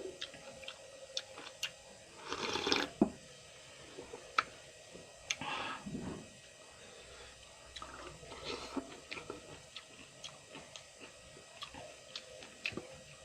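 A person eating close to the microphone: wet mouth clicks and chewing, with three louder bites or chews about 2.5, 6 and 8.5 seconds in.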